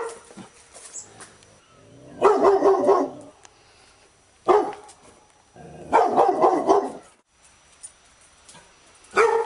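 Labrador retriever barking in bouts: short single barks alternate with longer runs of quick barks, about a second long, with quiet pauses between them.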